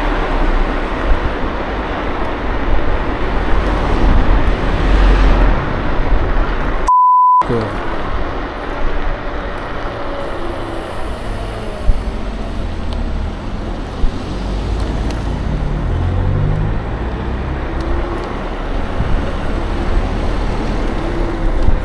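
Steady wind rush and road noise from riding an electric scooter through town traffic, with other vehicles' engines running past. About seven seconds in, a short high beep briefly replaces the sound: a censor bleep.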